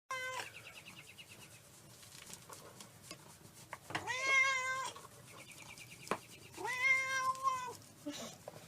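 Domestic cat meowing: a short cry at the start, then two long meows about three seconds apart, each rising and then held before dropping away.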